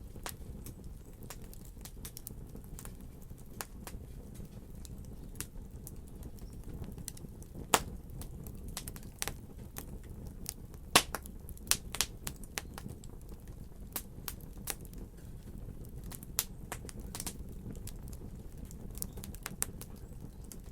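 Wood fire crackling: irregular sharp pops and snaps over a steady low rumble of the flames, with a few louder pops now and then.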